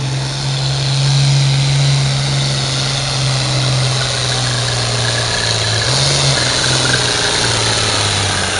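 John Deere 4255 tractor's turbocharged six-cylinder diesel engine running loud and steady under load while pulling the weight sled, with a faint high whine over it. The engine note shifts slightly in pitch about six seconds in.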